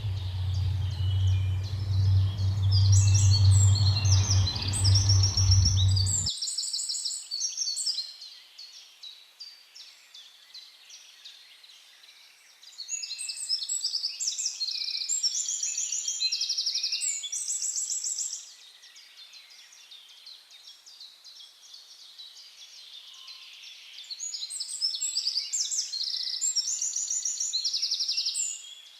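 A songbird singing in three phrases of rapid, high, repeated trilled notes, each about five seconds long, with quieter gaps between. For the first six seconds a low steady hum runs under the song, then cuts off abruptly.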